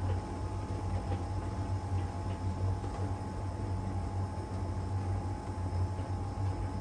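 LG heat pump dryer running in its drying phase: a steady low hum from the drum motor and heat pump compressor, with a constant faint whine and a few faint ticks.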